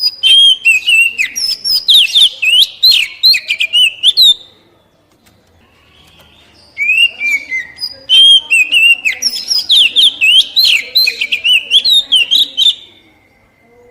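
Oriental magpie-robin singing a rapid, varied string of whistled and chattering notes in two bouts, with a pause of about two seconds after the first bout.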